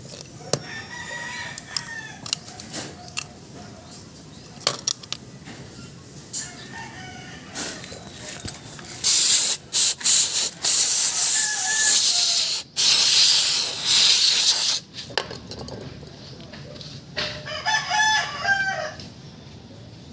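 A rooster crows about a second in and again near the end. In between, from about nine to fifteen seconds in, there are loud bursts of hissing with short breaks, the loudest sound here, along with a few scattered clicks.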